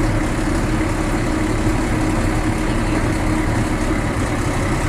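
Engine idling steadily, an even low rumble with a constant hum.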